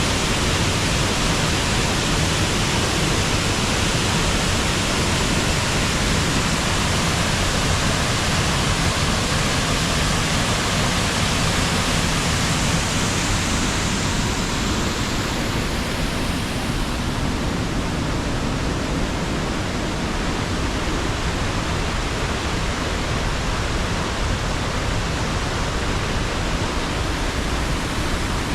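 Waterfall and river water rushing, a steady dense hiss. About halfway through, the highest part of the hiss dulls a little.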